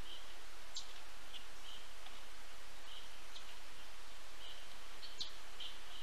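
Small birds giving short, high chirps at irregular intervals, a few every second or two, with several sharper high notes among them, over a steady outdoor hiss.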